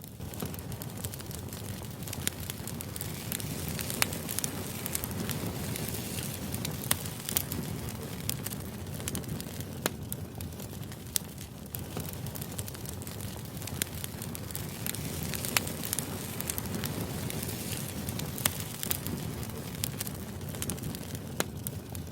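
Steady white-noise background with irregular sharp crackles and clicks scattered through it.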